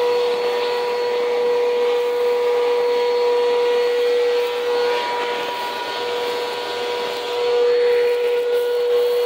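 Bissell CleanView vacuum cleaner running on cement: a steady motor whine over rushing airflow. The whine wavers and drops briefly about five seconds in, then comes back.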